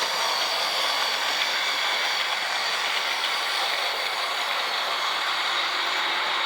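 O-scale model GE U25B diesel locomotive running around the track. Its Central Locomotive Works drive, a central motor turning geared trucks, makes a steady growl with a thin high whine over it.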